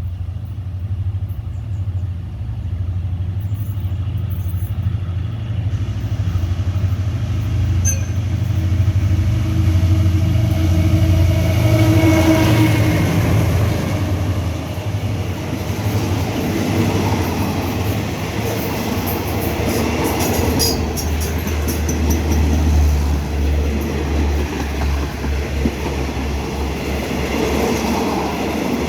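State Railway of Thailand Hitachi diesel-electric locomotive running through a station with its engine droning low, the drone building up to about halfway as it comes by. After that the passing cars' wheels clatter steadily on the rails.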